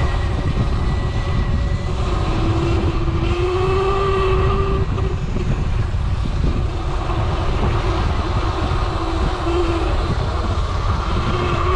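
Wind rushing over the camera microphone while riding an electric dirt bike, with the electric motor's whine gliding up and down in pitch as the speed changes.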